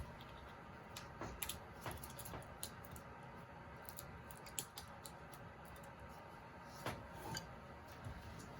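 Faint small cuts and scrapes of a carving knife working wood, short irregular ticks at a few a second with a few louder nicks scattered through.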